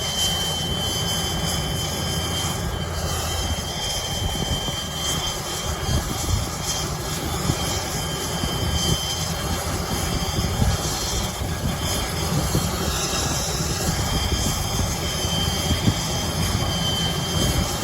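Medical helicopter spinning up: a steady turbine whine over the low, pulsing rumble of the turning rotor.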